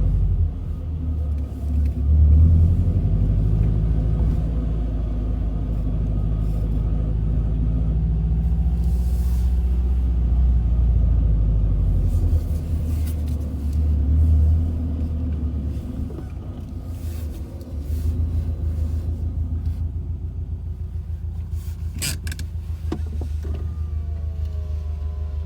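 Subaru WRX running with a heavy, steady low rumble, recorded to show a grinding noise. A few sharp clicks come about 22 seconds in, and a faint wavering whine follows near the end.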